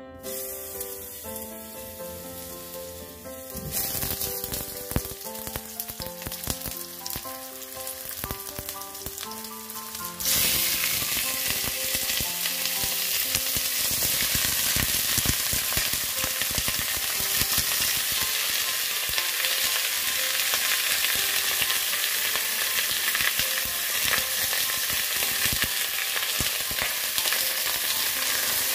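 Potato and chicken pieces frying in hot oil in a pan: a sizzle under piano music at first, then a sudden jump to a loud, steady sizzle about ten seconds in that lasts to the end.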